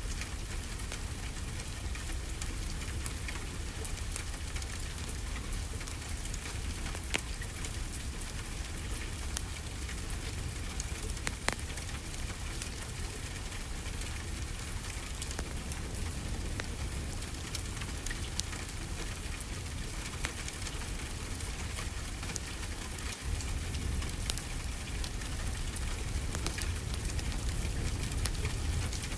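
Steady rainfall mixed with a crackling wood fire, with scattered sharp pops through the steady hiss.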